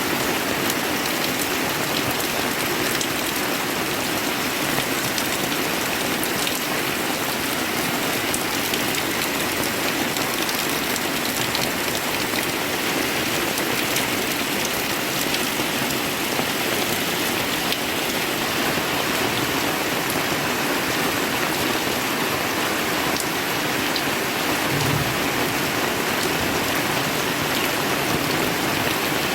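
Heavy rain pouring steadily, a dense even hiss with scattered drop ticks on hard surfaces. A brief low thump about 25 seconds in.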